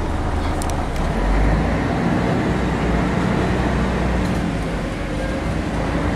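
Scania L113-CRB bus's rear-mounted diesel engine running as the bus travels, with a low steady rumble that swells a little about a second in.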